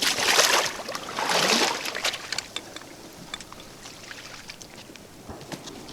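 Water splashing in two short bursts in the first two seconds, then small scattered drips and trickles.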